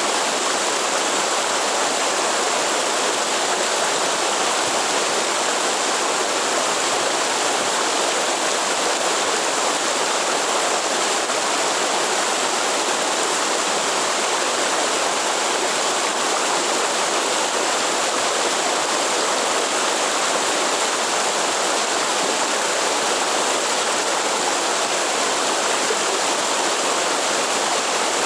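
Water running steadily from a forest waterfall or stream, an even rushing sound with no breaks.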